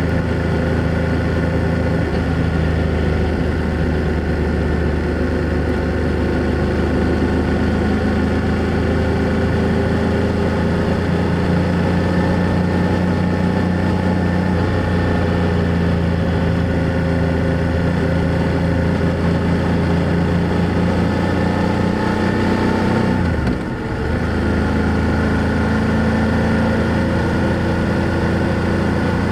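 BMW F800GS parallel-twin motorcycle engine and exhaust under way at steady cruising revs, the pitch drifting gently. About three-quarters of the way through the sound dips briefly before picking up again.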